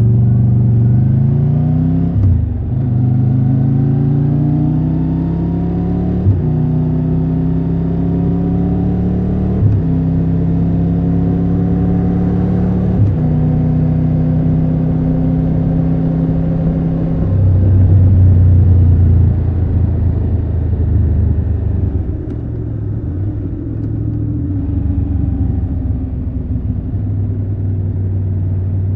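Triumph Tiger 1200 Rally Pro's three-cylinder engine pulling away and shifting up through the gears, with short breaks in its rising note about 2, 6, 10 and 13 seconds in. It then drops to a deeper, louder note, and near the end it eases off with a slowly falling pitch.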